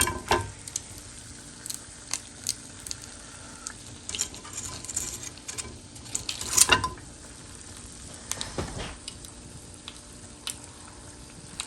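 Beer-battered, panko-coated bacon on skewers deep-frying in hot oil: a steady sizzle with small crackles throughout, and a louder knock a little past halfway.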